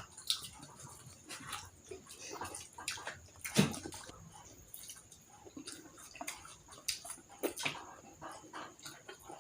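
Close-up eating sounds: chewing and wet mouth smacks with scattered small clicks, one sharper click about three and a half seconds in.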